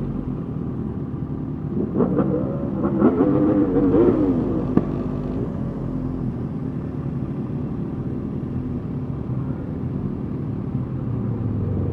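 Motorcycle engines running at parade pace, with a few revs rising and falling between about two and five seconds in.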